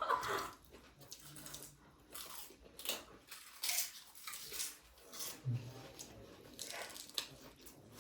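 Close-up chewing and crunching of food in the mouth: irregular crunchy bites.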